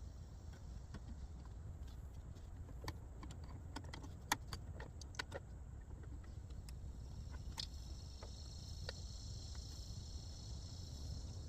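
A run of small sharp clicks and taps, as of plastic trim and tools being handled in a car interior, loudest about four seconds in. From about seven seconds a steady high hiss joins, over a low steady rumble.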